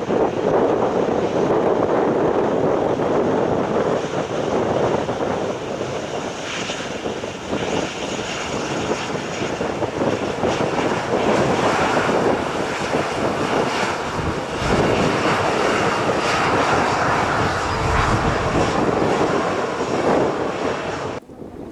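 Airliner passing low on its landing approach, engines running as a loud, steady rush with a faint high whine, while gusts of wind rumble on the microphone. The sound cuts off abruptly just before the end.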